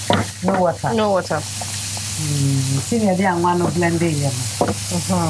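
Food sizzling in a pan on the stove, a steady hiss with some stirring, under a woman talking.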